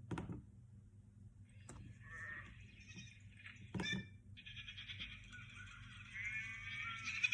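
A recording of a sheep bleating, played back: a few wavering bleats, the longest near the end. A brief knock comes just after the start and another about four seconds in.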